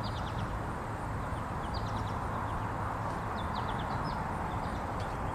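Small birds chirping in short quick runs of high notes, several times, over a steady outdoor rush of background noise.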